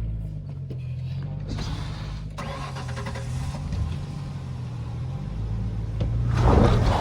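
Ford Ranger pickup's engine running at low revs in the cab while crawling a rocky trail, growing louder in a burst of noise near the end.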